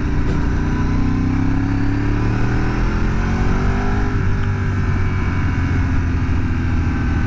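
Ducati 848's 90-degree V-twin engine under way, rising in pitch as it accelerates for about four seconds, then dropping at a gear change about four seconds in and running steady, with wind and road noise on the bike's camera microphone.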